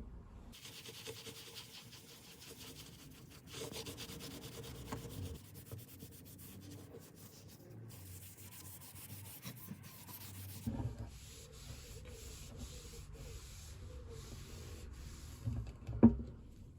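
Hand sanding on the wooden guitar: sandpaper rubbing back and forth, in several short takes that change suddenly from one to the next. A single sharp knock near the end.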